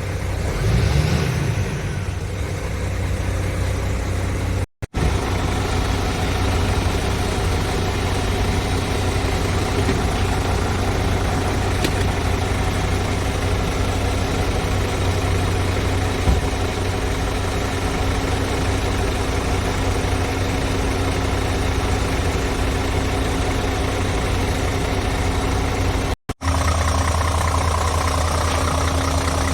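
Scania S500 tractor unit's 13-litre straight-six diesel idling steadily. The sound drops out twice for an instant.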